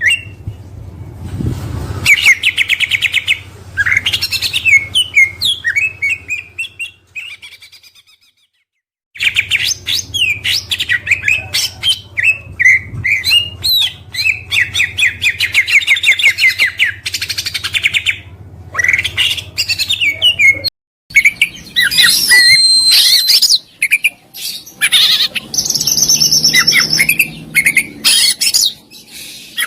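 Oriental magpie-robin singing loudly: a varied song of whistled and chattering phrases, with long runs of fast, evenly repeated notes. The song breaks off for about a second around eight seconds in, and again briefly past the twenty-second mark.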